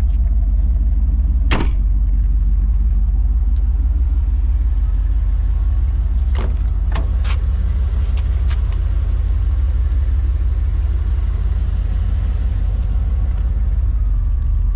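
Steady low rumble of the 1985 Camaro IROC-Z's 305 tuned-port-injected V8 idling. A few sharp clicks sound over it: one about a second and a half in, and three close together about halfway through.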